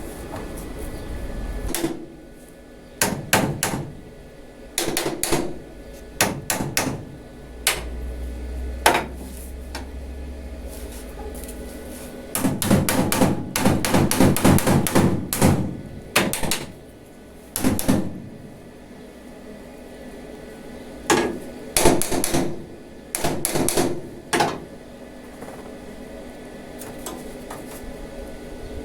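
Hammer blows in short bursts of a few strikes, with a long fast run of blows in the middle and quiet gaps between bursts.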